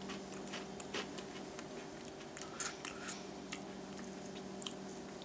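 A person chewing a dry, crispy cereal puff (Little Debbie Oatmeal Creme Pie cereal): faint, irregular crunching clicks over a steady low hum.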